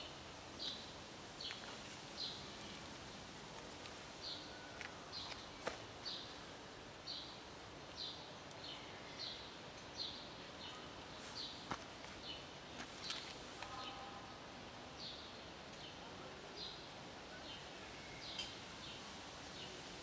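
A small bird chirping over and over, a short high chirp about once every three-quarters of a second, over a steady outdoor background hiss. A few sharp clicks are scattered through it.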